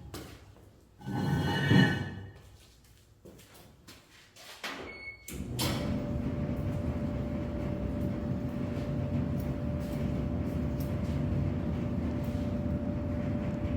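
A clatter in the first two seconds, then a Whirlpool dryer starting with a short beep about five seconds in. Its drum then turns steadily with a low, even rumble and a faint steady hum.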